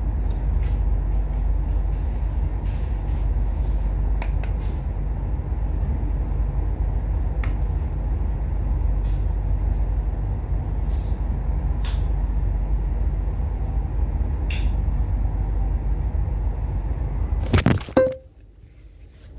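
Steady low rumble inside a train carriage, with scattered light clicks. Near the end, a few loud knocks from the phone being handled, after which the sound drops away suddenly.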